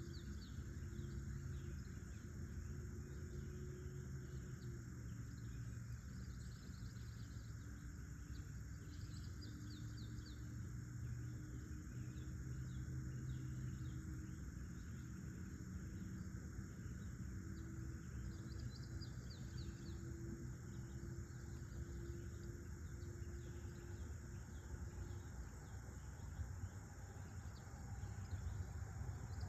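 Outdoor country ambience: a steady high chirring of insects, with short runs of bird chirps about every ten seconds, over a low steady hum.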